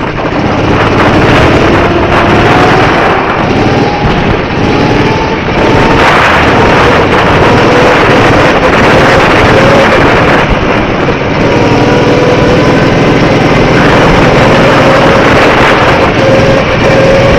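Go-kart engine running under a loud rushing noise, its pitch climbing over the first six seconds as the kart accelerates, then holding roughly steady.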